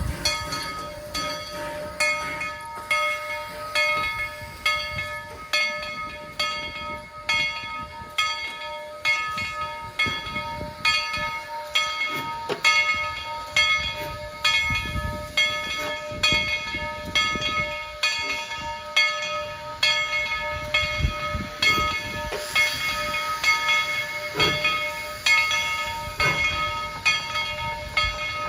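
Tweetsie Railroad steam locomotive No. 190 working, with a regular beat of sharp strokes about once a second over a steady ringing tone.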